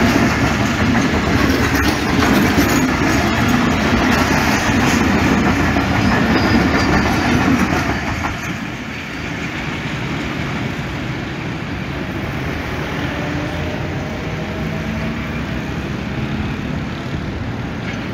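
Pakistan Railways passenger coaches rolling past at speed, their wheels clattering over the rail joints. The sound drops suddenly about eight seconds in as the last coach goes by, leaving the quieter, steady noise of the train running away down the line.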